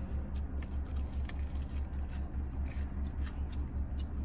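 Chewing and small mouth clicks of someone eating a Korean corn dog, over a steady, low, pulsing hum.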